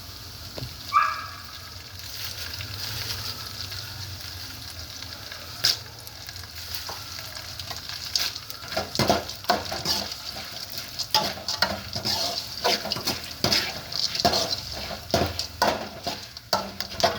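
Roasted gram dal frying in a little oil in a pan, with a steady sizzle. A spoon scrapes and knocks against the pan, now and then at first and in quick, frequent stirring strokes from about eight seconds in.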